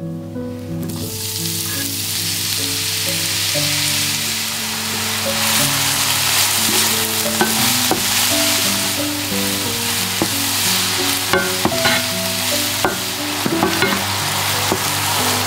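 Chopped mushrooms sizzling in oil in a nonstick frying pan, the hiss starting about a second in. From the middle on, a wooden spatula scrapes and taps against the pan as they are stirred.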